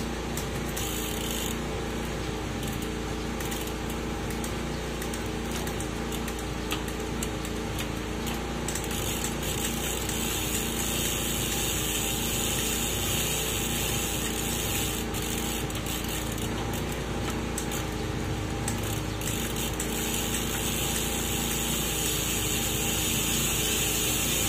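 Bicycle drivetrain spinning with the rear wheel off the ground: a steady whir of a freshly lubricated chain running over the gears of a Shimano Altus setup, which the owner calls perfectly tuned and fast.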